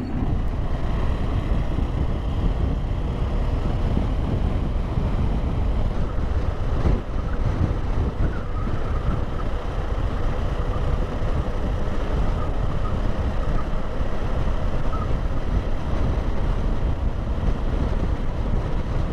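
A motorcycle being ridden at a steady pace: wind rushing over the microphone, with the engine running steadily underneath.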